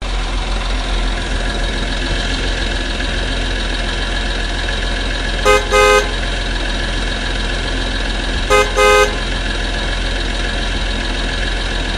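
A vehicle horn honks twice, about three seconds apart, each time a short toot followed by a longer one, over a steady vehicle drone.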